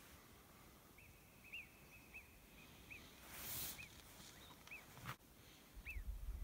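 A small bird chirping faintly, about ten short chirps spaced irregularly over five seconds. There is a brief hiss about three and a half seconds in, and wind rumbling on the microphone near the end.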